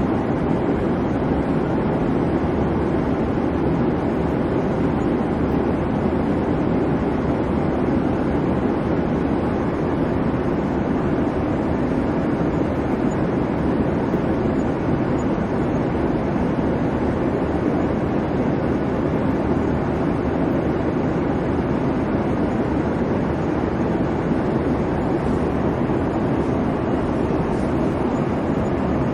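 Airliner cabin noise in flight: a steady rumble of engines and airflow, strongest in the low range, unchanging throughout.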